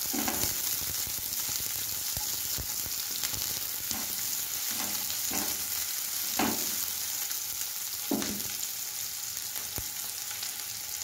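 Sliced onions and chillies sizzling in hot mustard oil in a kadai, with a spatula stirring them and scraping the pan now and then, about six strokes.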